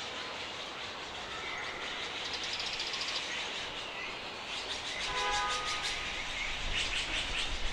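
Small garden birds chirping in quick runs over steady outdoor background noise. About five seconds in comes a brief, distant horn-like tone, and a low rumble builds through the second half.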